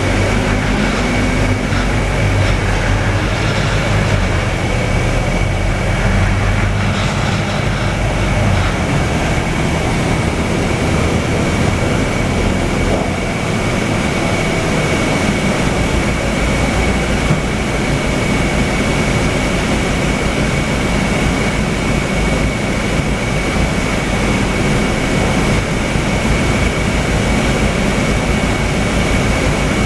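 Scania K320UA city bus heard from inside the passenger cabin while under way: steady low engine rumble and road noise, with the engine note shifting about halfway through. A thin, steady high whine runs underneath throughout.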